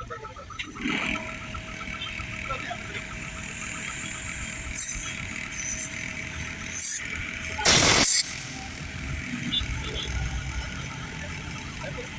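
A short, loud hiss lasting about half a second, about eight seconds in, over steady background noise.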